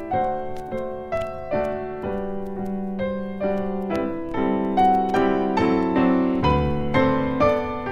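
Background piano music: a gentle solo piano playing a melody over chords, with notes struck about twice a second.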